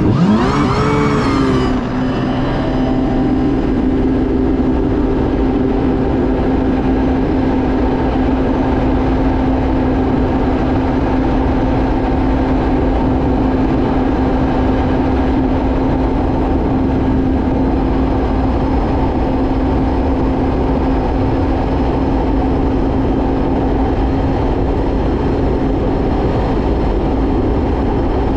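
Kawasaki Ultra 310 jet ski's supercharged four-cylinder engine at a launch-control start: the revs shoot up in the first second, dip back around two seconds in, then hold one steady high note through a full-throttle run, with a steady rushing noise underneath. The ECU's speed restriction is switched off, so the engine is not pulled back.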